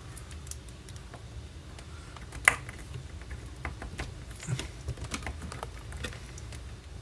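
Scattered light clicks and taps of hand work with small screws and a hand screwdriver, with one sharper click about two and a half seconds in.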